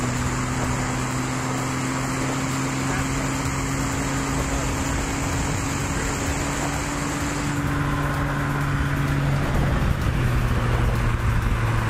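Stock BMW 330ci's 3.0-litre straight-six engine pulling hard in one gear along a straight, its pitch climbing slowly and steadily, with wind and road noise from the open-top cabin.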